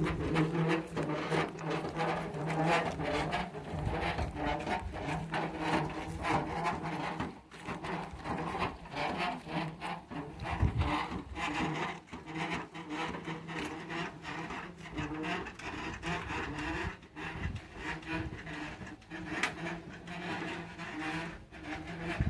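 A cart loaded with a wooden stump being pushed along, its wheel rubbing and knocking as it rolls.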